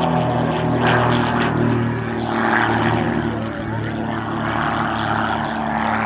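Propeller aircraft flying by: a steady engine drone of several even tones under a loud rushing noise.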